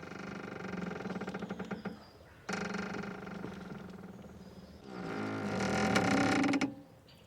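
Boat mooring rope creaking and squeaking as it strains and rubs: three long drawn-out creaks, the last one, about two-thirds of the way in, the loudest.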